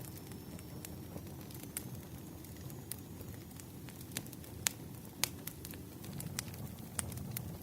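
Wood fire burning: a steady low rumble of flames with irregular sharp crackles and pops from the logs, the loudest pops about halfway through.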